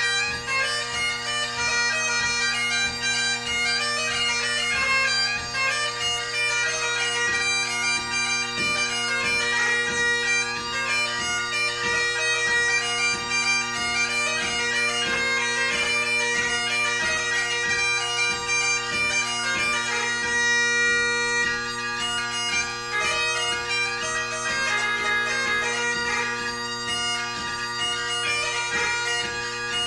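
Great Highland bagpipe played solo: the drones sound steadily underneath while the chanter plays a light-music (ceol beag) tune with fast grace notes.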